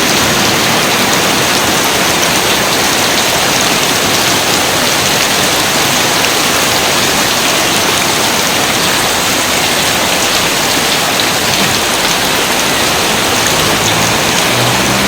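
Steady rain pouring, a dense even hiss of drops with no let-up. A low rumble comes in near the end.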